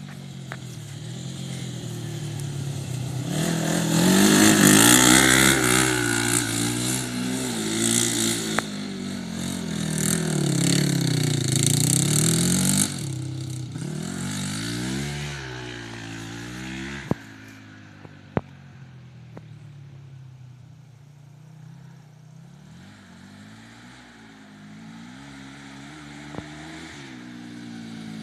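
Quad bike powered by a Kawasaki GPZ 500 motorcycle parallel-twin engine being ridden around, its revs rising and falling. It is loudest for the first half as it runs close, then fades away, and it grows louder again near the end. Two sharp clicks come a little past halfway.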